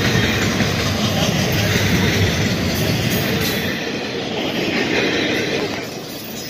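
Double-stack container train's well cars rolling past at close range: a steady rumble of steel wheels on rail with a few clicks. The low rumble thins out about two-thirds of the way through.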